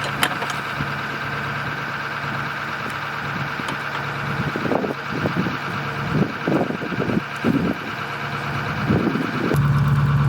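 A steady mechanical drone, with a few clunks about halfway through. It turns suddenly louder and deeper near the end.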